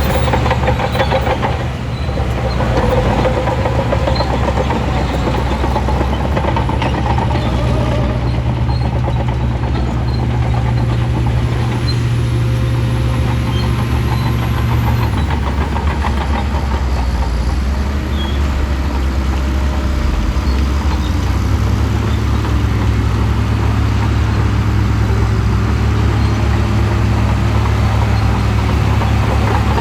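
Shantui bulldozer's diesel engine running steadily under work; its note drops about halfway through and picks up again a few seconds later.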